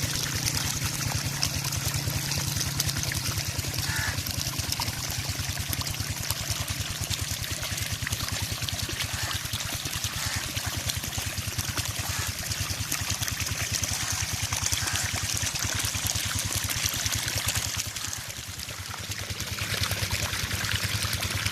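Water gushing steadily from a tube well's discharge pipe, over the steady, rapid thudding of the diesel engine driving the pump. The water dips briefly near the end.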